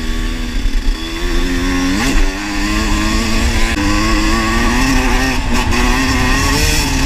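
Dirt bike engine running under throttle on a trail, its pitch sweeping sharply up about two seconds in and shifting again about a second and a half later as the rider works the throttle.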